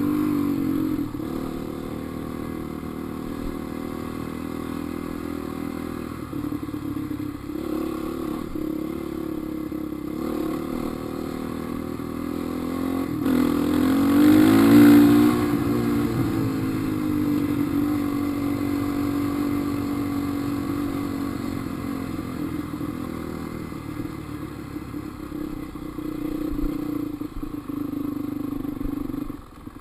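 Dirt bike engine running on a trail ride, its pitch rising and falling with the throttle; the biggest rev comes about halfway through, and the engine drops off right at the end.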